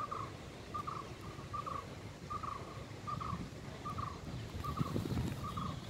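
A bird repeating one short call note at an even pace, a little over once a second, about eight times.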